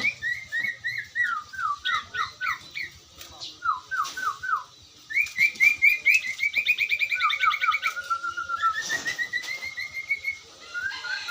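A sirtu songbird singing non-stop: series of clear whistled notes, many sliding down in pitch, with a fast even trill about six seconds in and a long rising run of notes near the end.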